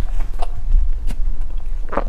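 Close-miked chewing of soft chocolate bread: a few short, wet mouth clicks over a steady low rumble, with a louder crackle near the end.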